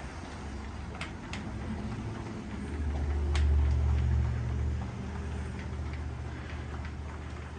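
O scale model train running on the layout: a low rumble that swells about three seconds in, peaks for a couple of seconds, then eases off, with a few sharp clicks.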